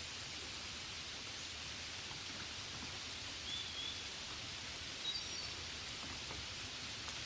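Steady gentle rain with a few scattered drop ticks, and a few brief high chirps around the middle.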